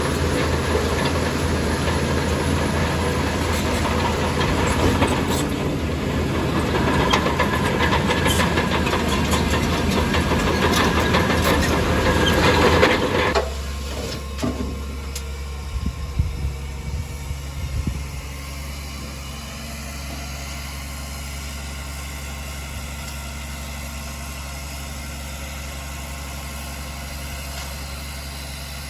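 Heavy diesel earthmoving machinery. The engine runs hard under a loud, dense grinding and rushing noise that cuts off abruptly about halfway through. After that the engine idles steadily, with a few clanks.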